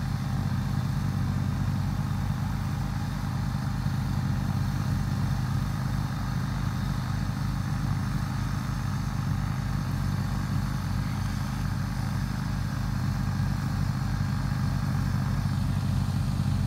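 John Deere X324 lawn tractor engine running steadily, with an even low throb.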